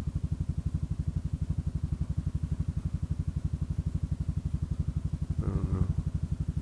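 Kymco Xciting 400i scooter's single-cylinder engine idling steadily, an even low pulse of about twelve beats a second.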